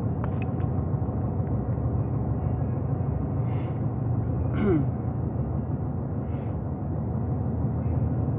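Steady low rumble of a truck driving, heard from inside the cab, with a few brief faint clicks.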